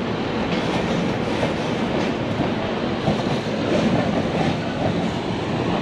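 Passenger train running on the rails, heard from on board: a steady rumble and rattle of wheels over the track.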